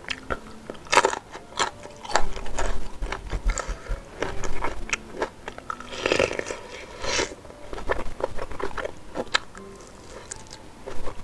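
Close-miked eating: biting into a raw green chili, then biting sempol (fried chicken-and-tapioca skewers) off the stick and chewing, a dense run of short crunches and mouth clicks with a louder bite about six seconds in.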